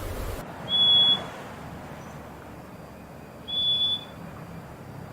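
Purple-throated euphonia (fim-fim) giving clear, high whistled notes: one about a second in and another about three and a half seconds in, each about half a second long, over faint background noise.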